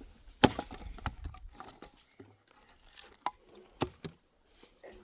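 A few sharp knocks, the loudest about half a second in, with smaller ones scattered through the rest and faint crackling between them.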